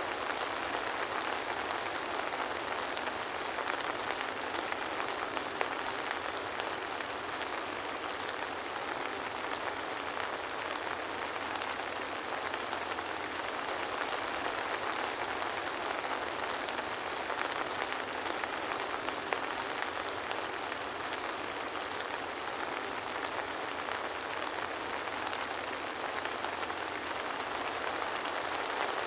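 Steady soft rain falling, an even hiss of rainfall with scattered individual drop ticks, no thunder.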